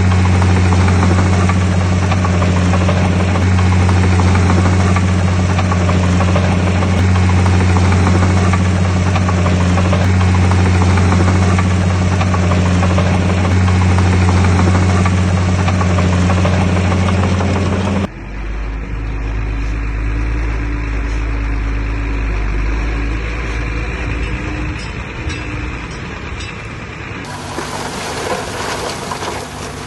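Heavy earthmoving machinery's diesel engine running steadily with a strong low drone. About two-thirds of the way in, the sound changes suddenly to a deeper, quieter rumble, and it shifts again near the end.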